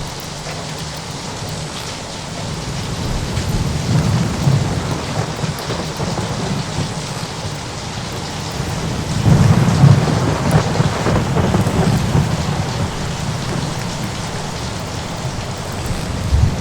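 Steady rain with rolling thunder: a low rumble swells about four seconds in, and a louder peal rolls from about nine seconds in before fading back into the rain.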